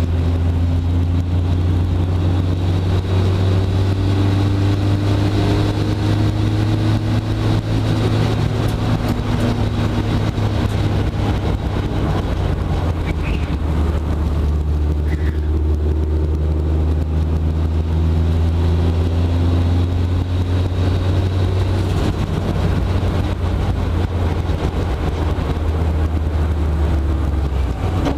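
Mitsubishi Lancer Evolution VIII race car's turbocharged 2.0-litre four-cylinder engine, heard from inside the stripped cabin under hard acceleration. The engine note climbs in pitch again and again and drops back at each gear change, over a heavy steady cabin rumble.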